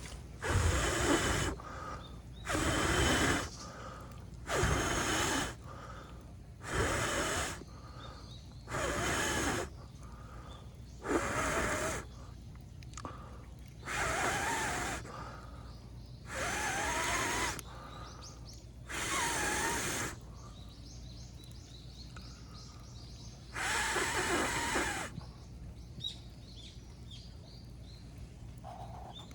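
A person blowing long, forceful breaths onto a dying bonfire to revive the smouldering embers, about ten blows of roughly a second each, every two seconds or so, with a longer pause before the last.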